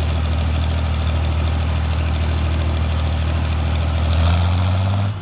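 Farmall 560 tractor engine running steadily with a deep, even hum, a little louder about four seconds in.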